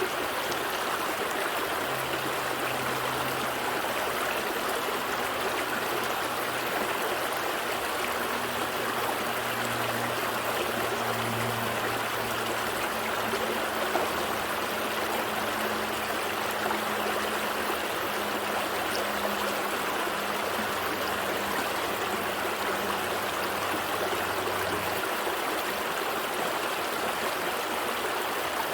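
Gentle stream flowing steadily, an even rush and trickle of water. A faint low hum runs beneath it from about two seconds in and cuts off suddenly near the end.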